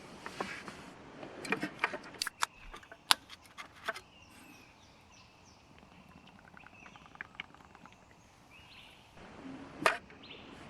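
Faint bird calls in quiet surroundings, with a string of sharp clicks and knocks in the first few seconds and one more loud click near the end.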